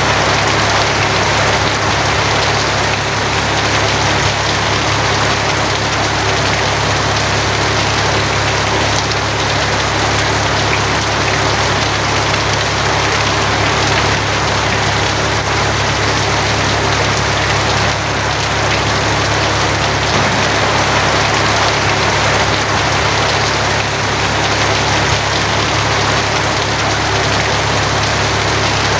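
Steady heavy rain falling on a tin roof, an even hiss with no breaks, over a steady low rumble.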